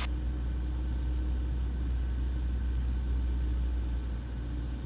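Cessna 172's engine and propeller as a steady low drone in the cabin, picked up through the headset audio feed, with faint steady tones over it.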